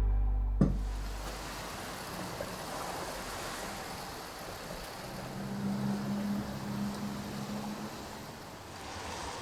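Steady hiss of falling rain, after background music cuts off with a click about half a second in. A low hum joins it for a few seconds in the middle.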